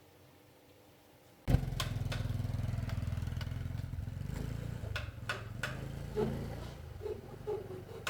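Small motorcycle engine starting suddenly about a second and a half in and running steadily, with a few sharp clicks, then getting quieter toward the end.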